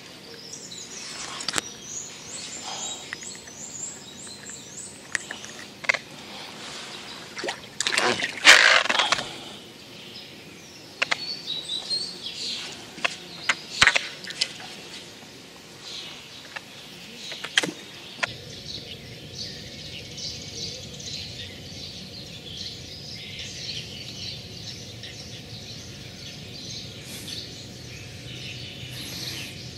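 Small birds chirping and singing over outdoor background noise, with scattered sharp clicks and a brief louder rustling burst about eight seconds in. About two-thirds of the way through the background turns to a steadier, even hiss while the chirping goes on.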